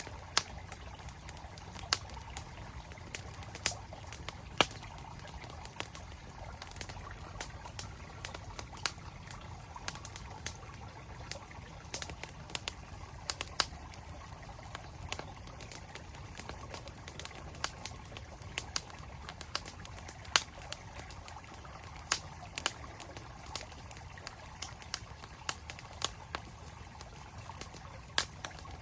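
Campfire crackling, with sharp irregular pops and snaps several times a second over the steady rush of a flowing mountain stream.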